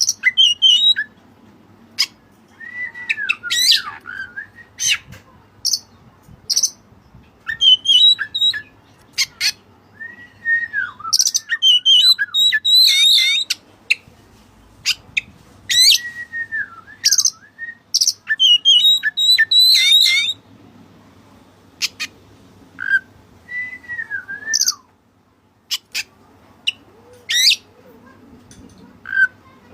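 White-breasted oriental magpie-robin (kacer) singing in bursts of varied phrases: arching whistles, sharp clicks and fast high trills, with short pauses between them.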